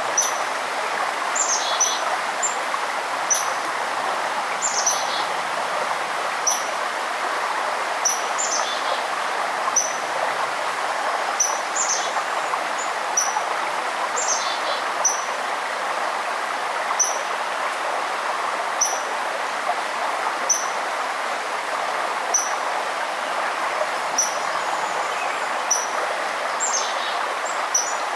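Forest stream running steadily, with small birds chirping over it: short high chips about once a second and now and then a quick falling note.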